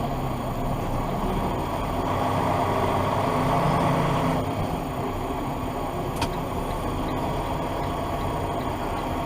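Steady road and engine noise inside a moving car, swelling for a couple of seconds and then easing, with one short click about six seconds in.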